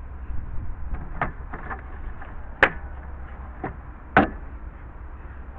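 A handful of short, sharp knocks and clicks at irregular intervals, the two loudest about two and a half and four seconds in, over a low steady rumble.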